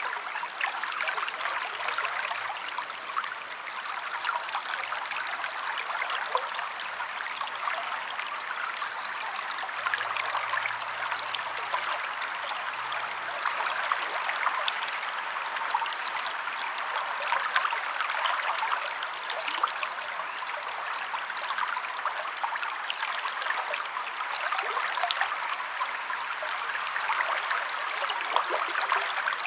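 Flowing river water, a steady dense babbling and splashing. A small bird's short, quick high trill comes in every few seconds.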